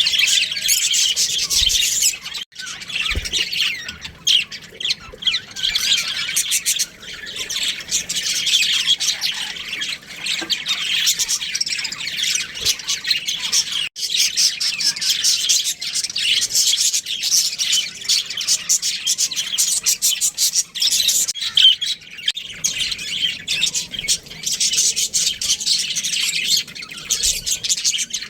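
Budgerigars chattering continuously, many rapid high chirps and squawks overlapping.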